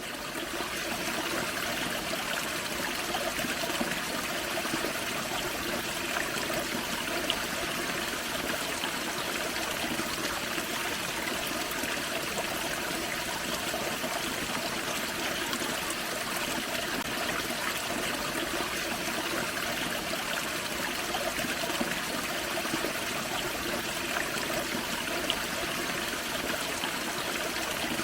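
Small forest creek waterfall: water splashing and trickling over rocks in a steady, unbroken rush, fading in at the start.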